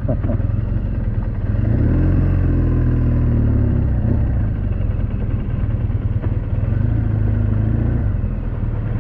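BMW R1200GS boxer-twin engine running at low speed, with the revs rising briefly about two seconds in and again near the end.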